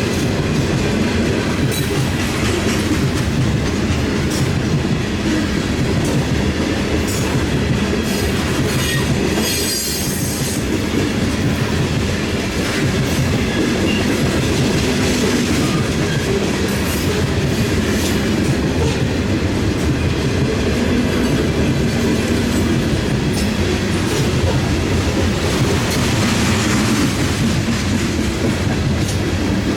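A long Norfolk Southern freight train's cars rolling past in a steady rumble, wheels clacking over the rail joints. A brief high wheel squeal comes around ten seconds in.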